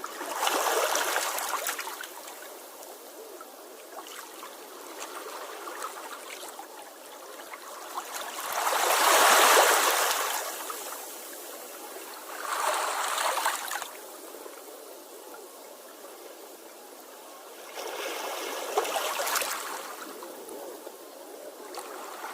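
Sea waves washing onto the shore, with four surges of foaming water a few seconds apart, the one about nine seconds in the loudest, over a steady hiss of water.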